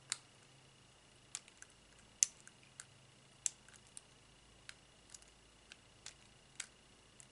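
Light, sharp clicks and ticks at irregular intervals, about a dozen over several seconds: small tools and parts tapping on the scope's metal tube as the thin spacer gaskets between the lenses are picked out one by one.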